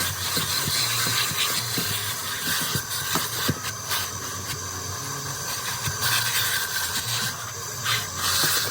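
Car-wash equipment running with a steady hiss over a low hum, with a few faint knocks.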